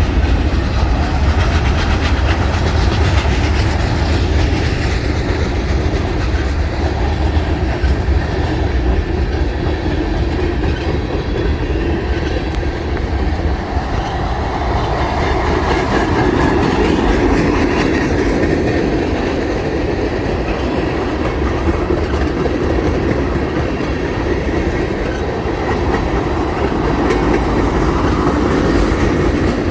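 A train rolling past steadily, with the wheels clacking over the rail joints and a heavy low rumble.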